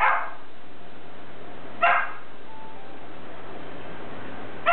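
A dog yipping in short sharp barks: one right at the start, another about two seconds in, and one more at the end, over a steady background hiss.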